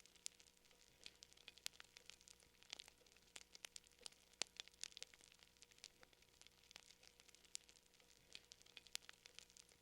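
Fire crackling faintly: irregular small pops and snaps, several a second and varying in strength.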